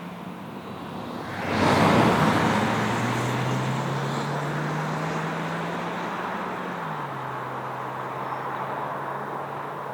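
Suzuki Vitara Turbo's 1.4-litre turbo four-cylinder engine pulling under acceleration: its note climbs slowly and drops twice, once about a second and a half in and again about seven seconds in, as the gearbox changes up. A loud rushing noise swells about a second and a half in and fades slowly.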